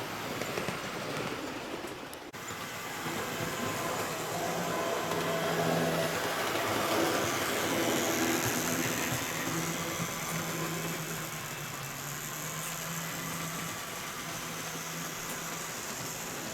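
Model train running along the track: a steady motor hum and wheel rumble on the rails, swelling louder in the middle as it comes closer, then settling.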